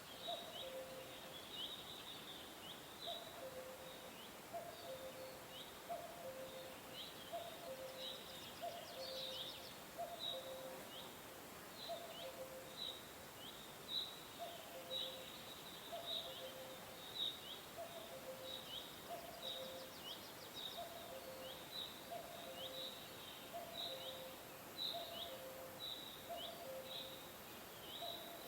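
Birds chirping: a steady run of short, high, downward-sweeping chirps, about two a second. Under them a lower two-note call repeats about every second and a half, over a soft steady hiss.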